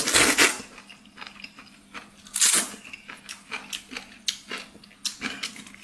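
A person slurping in a mouthful of potato noodles, then chewing close to the microphone with many short, sharp mouth clicks.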